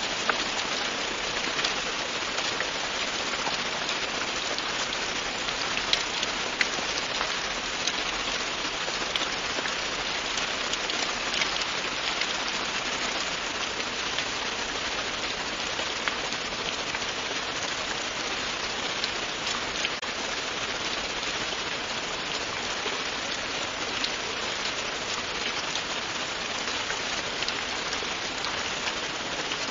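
Steady, continuous rain falling on a surface, an even hiss with many fine individual drop taps and a few sharper ones scattered through.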